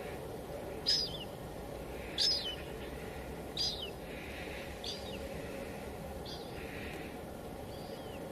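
Steady hiss of drizzle against a window, with a bird calling six times at an even pace of about one call every second and a half, each call a short note that drops at the end, the later ones fainter.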